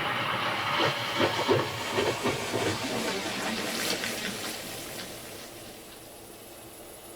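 Electronic sound-design soundscape: a dense wash of noise with short pitched fragments for the first few seconds, then fading away.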